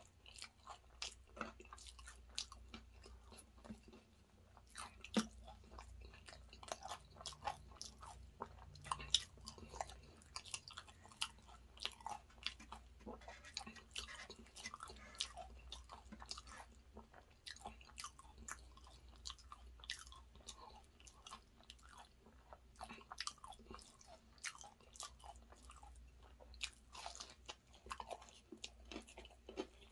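Close-up chewing of a vegetable samosa: wet mouth sounds with many small, sharp, irregular clicks and crunches of the pastry.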